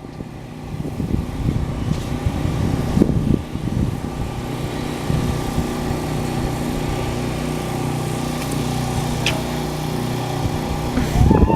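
Engine running steadily: a low, even hum with rumbling noise, and a brief louder sound rising in pitch near the end.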